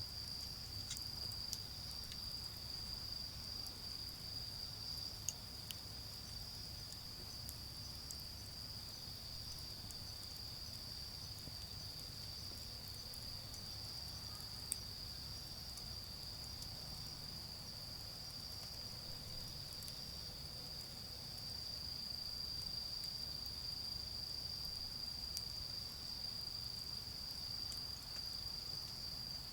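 Autumn crickets trilling in one steady, unbroken high-pitched chorus, with a few faint pops from a charcoal fire and a low, distant traffic rumble underneath.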